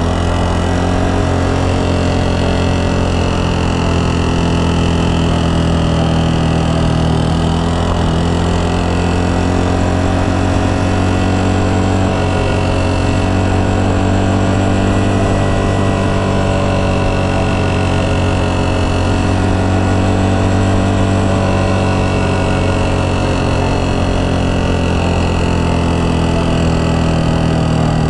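Yamaha Serow 250's air-cooled single-cylinder four-stroke engine running at a steady cruise. Its pitch rises and falls gently with the throttle.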